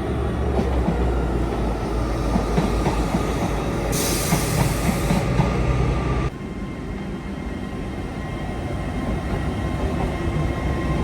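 LNER Azuma express train pulling out of the platform, a heavy rumble with a faint steady whine, and a short burst of hiss about four seconds in. The rumble drops away sharply about six seconds in as the train moves off.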